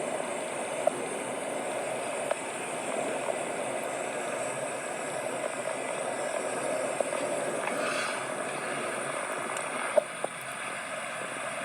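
Steady rushing noise, with a few light clicks and a sharper knock about ten seconds in.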